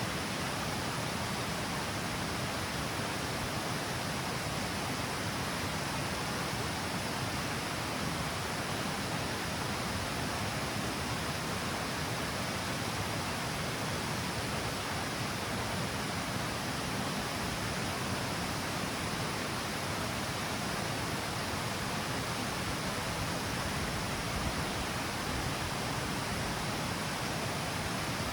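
Water of the Mijares river pouring over a stepped cascade: a steady, unchanging rush of falling water.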